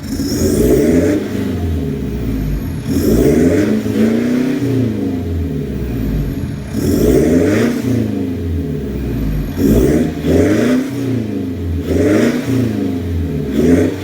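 2016 Mitsubishi Montero engine being revved through its exhaust system, about six quick throttle blips, each rising in pitch and falling back toward idle.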